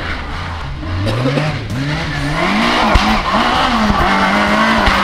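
Rally car engine approaching, revving with its pitch rising and falling several times, growing louder as it comes closer.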